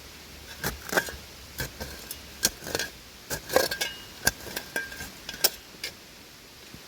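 A digging tool scraping and clinking through buried broken glass and shards in a bottle dump: a dozen or so irregular sharp clinks, some with a brief glassy ring.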